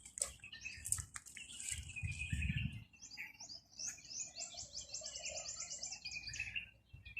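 Small songbirds chirping, with one rapid trill of high repeated notes lasting about three seconds in the middle.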